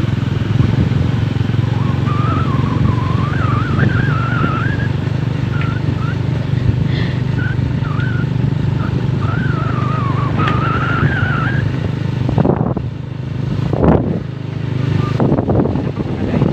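Motorcycle engine running steadily under way, with rushing wind and road noise, while a thin, wavering high tone rides over it for about ten seconds.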